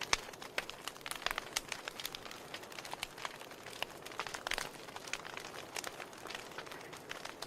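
Wood fire crackling in a fireplace: irregular sharp pops and snaps from the burning logs over a soft steady hiss.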